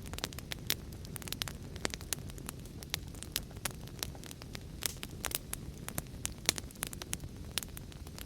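Wood fire crackling in a fireplace, with irregular sharp pops several times a second over a steady low rushing noise.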